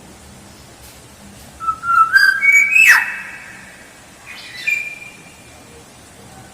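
A black-naped oriole (kepodang) sings a fluting, whistled phrase about two seconds in: a few notes step upward, then one sharp downward slur, the loudest part. A shorter, softer whistle follows about a second later. It is a lure recording of the song, played to attract wild orioles.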